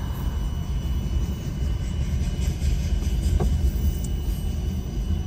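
Double-stack intermodal container freight train rolling past with a steady low rumble, light rapid clicking midway through, and a brief squeal about three and a half seconds in.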